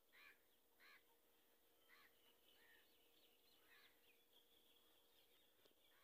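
Faint outdoor birdsong: a handful of short calls spaced about a second apart, then steady high twittering from about three seconds in, with a faint steady hum underneath.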